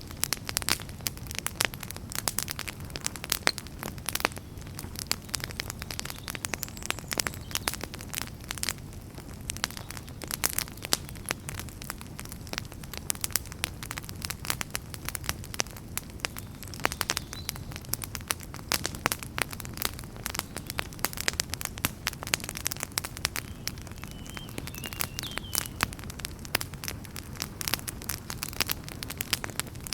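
Wood campfire crackling, with many irregular sharp snaps and pops over a steady low rush of burning.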